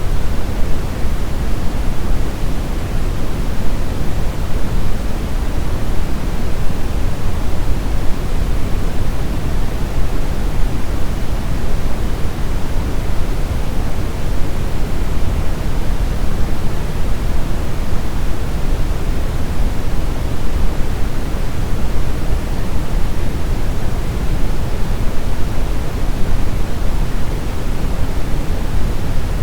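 Steady synthetic brown noise: an even, unchanging deep rushing hiss, heaviest in the low end and falling off toward the highs.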